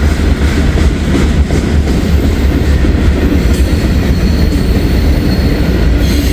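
Freight train's cars rolling past close by: a loud, steady rumble of steel wheels on the rails.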